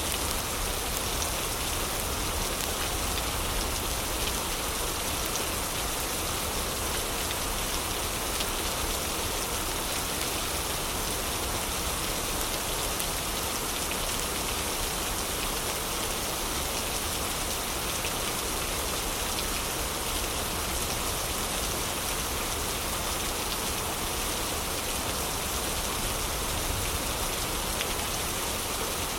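Heavy rain falling steadily: an even, dense hiss of many drops pattering without let-up.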